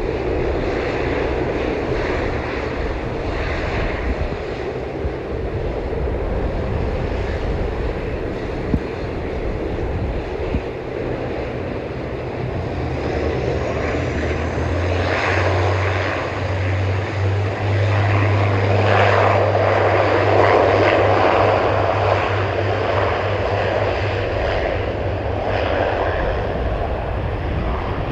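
Airplane engines running close by, growing louder with a steady low hum from about halfway in, at their loudest about two-thirds of the way through, then easing a little.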